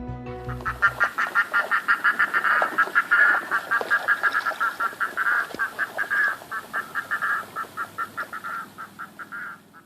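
Rapid repeated bird calls, several a second, slowing and fading toward the end, while music fades out in the first second.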